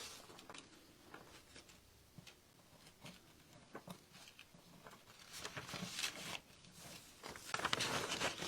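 Faint scattered taps and paper rustling from hands handling decoupage paper on a craft table, getting busier and louder near the end.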